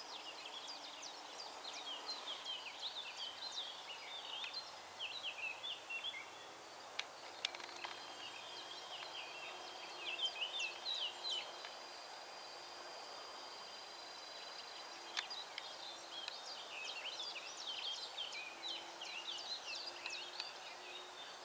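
A songbird singing fast runs of high chirps and warbles in bursts, with a longer lull midway, over a steady outdoor background hiss; a few sharp clicks stand out.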